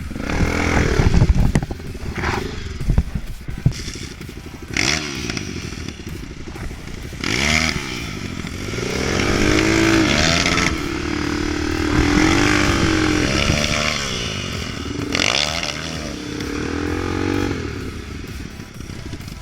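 Off-road vehicle engine revving up and falling back several times, as if working under load, with knocks and scraping mixed in.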